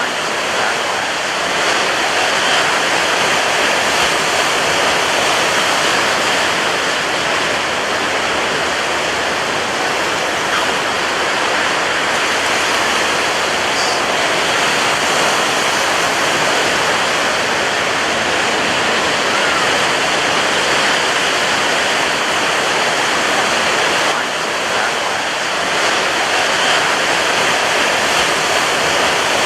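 Surf washing onto a beach: a continuous, dense rush of breaking waves at a steady level, easing slightly about 24 seconds in before building again.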